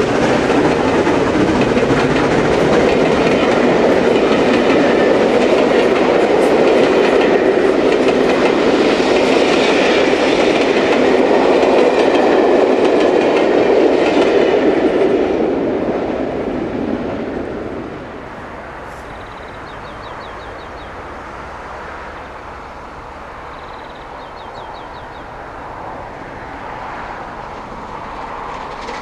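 A train passing at speed, loud for about fifteen seconds and then dying away, leaving a lower rumble.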